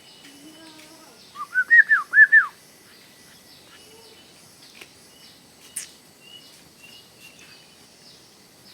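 Bird calling: a quick run of about six loud whistled notes, each rising then falling, about a second and a half in, followed by a few faint short chirps.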